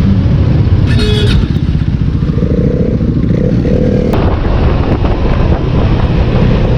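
Motorcycle engine running as the bike rides off, with wind noise on the bike-mounted camera's microphone growing louder about four seconds in. A brief high-pitched tone sounds about a second in.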